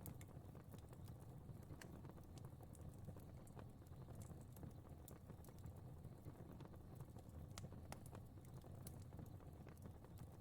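Faint fire crackling: a steady low rumble of flames with small irregular pops and crackles scattered throughout.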